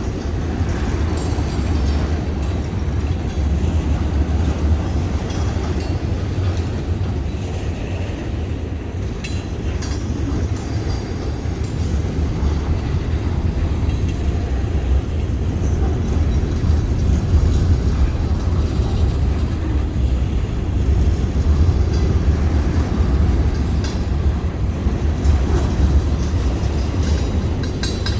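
Kiamichi Railroad freight train rolling past: a steady low rumble of steel wheels on the rails, with occasional clicks.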